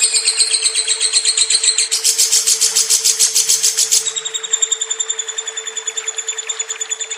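Pet lovebird singing a long, unbroken, rapid chattering trill of about ten notes a second, louder and higher-pitched between about two and four seconds in. A steady low hum runs beneath it.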